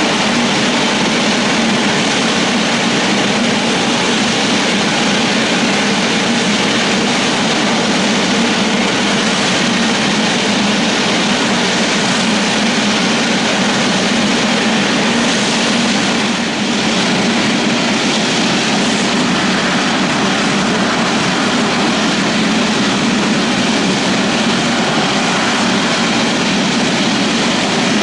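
Jet airliner's engines running at taxi power: a steady, even jet noise with no change in pitch.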